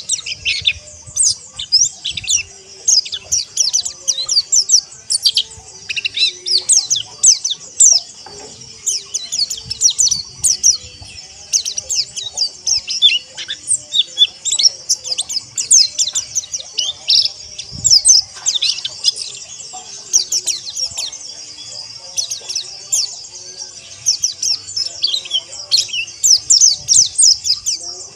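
A group of white-eyes (pleci) twittering together: many rapid, overlapping high chirps and short down-slurred notes, dense and unbroken.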